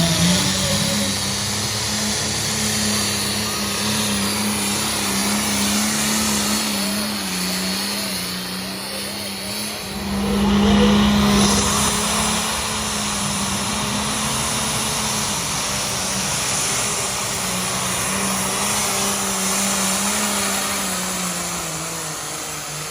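Engine of a pulling truck or tractor running hard under load, a steady droning note that swells about ten seconds in and fades slightly near the end.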